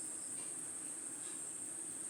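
A steady, unbroken high-pitched insect trill, like crickets, over a faint low hum.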